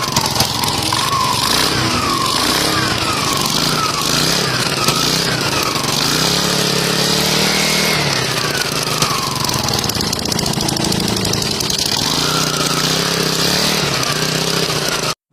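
Yamaha Fino single-cylinder four-stroke scooter engine running, its pitch gliding up and down repeatedly as it revs, over a steady hiss. The sound cuts off suddenly near the end.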